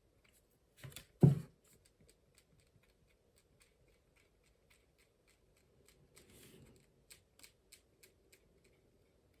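Fine-tip ink pen tapping dots onto watercolour paper: a string of faint, irregular ticks, a few each second. A louder knock about a second in.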